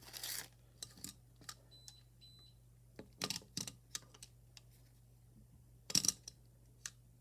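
Light, irregular clicks and taps of small hard parts being handled, as when sorting through screws and plastic hardware, with a louder cluster about three seconds in and again near six seconds. A steady low electrical hum runs underneath.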